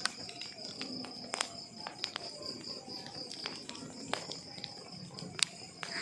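Burning wood logs crackling with irregular sharp snaps and pops, a louder snap about a second and a half in and another near the end, over a steady high trill of crickets.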